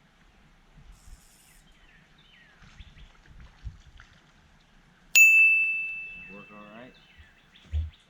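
A single bright ding a little past the middle: one clear ringing tone that starts suddenly and fades out over about two seconds. Faint handling rustles and light knocks come before it, and a low thump follows near the end.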